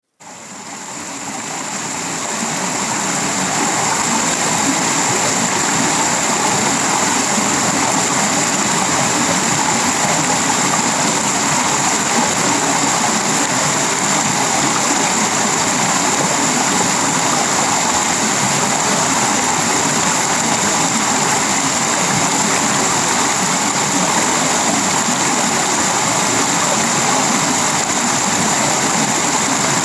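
Heavy tropical rain falling on a sheet-metal roof, wood and leaves: a steady, dense hiss that fades in over the first few seconds and then holds level.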